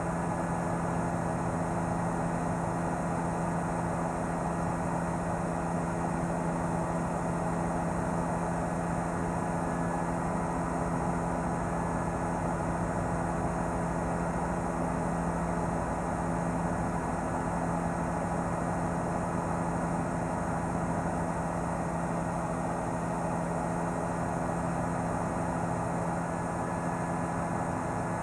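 News helicopter's engine and rotor noise, a steady drone with several held tones that do not change.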